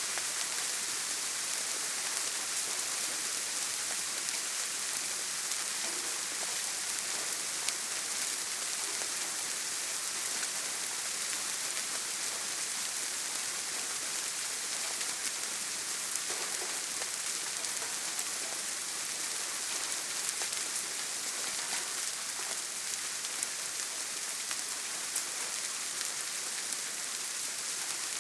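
Steady heavy rain on a tin roof: a constant hiss with a dense patter of small drop ticks, with no thunder.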